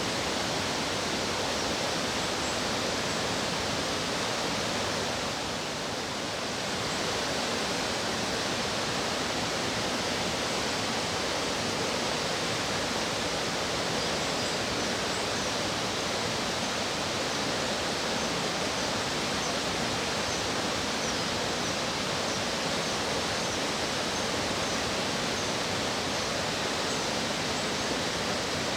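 A mountain stream rushing steadily over rocks. In the second half come faint, short, high calls, repeating about once a second.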